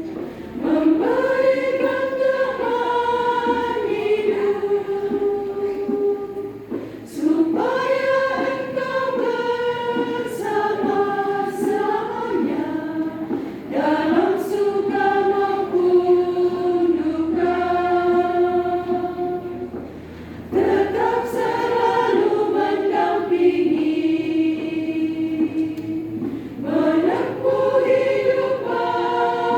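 Church congregation choir singing in long sustained phrases of about six or seven seconds, each followed by a short breath pause.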